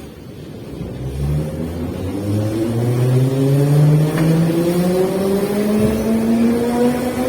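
Metro train's traction motors whining as the train pulls away and accelerates, the whine rising steadily in pitch over the carriage's growing rumble.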